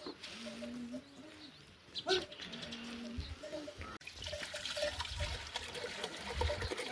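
A few low, steady coos, like a pigeon or dove, in the first half. Water splashing or running over the second half.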